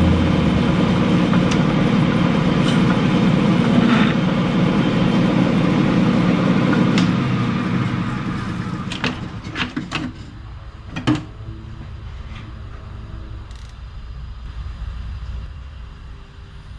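Metal lathe running steadily while turning a bushing to size, then switched off and winding down about eight seconds in. A few sharp metallic clicks and knocks follow.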